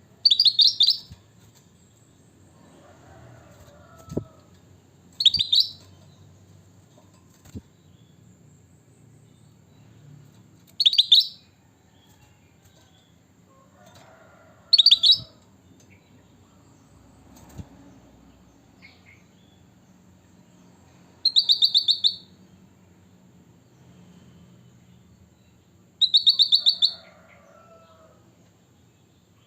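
Kutilang (sooty-headed bulbul) giving short, loud, high-pitched rapid-fire call phrases, six in all, one about every five seconds, with faint softer chirps and a few small clicks in between.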